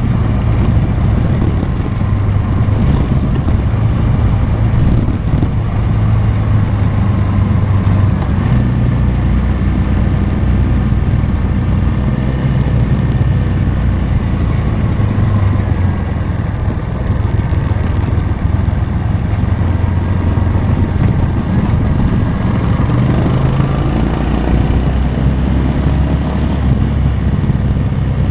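Motorcycle engine running steadily at low road speed, its pitch shifting a little with the throttle.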